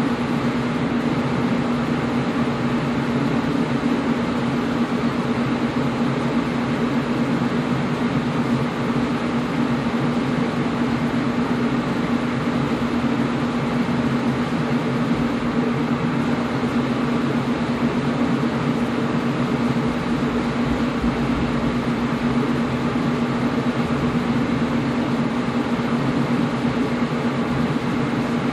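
Air conditioner running steadily: a constant fan whoosh with a low steady hum beneath it.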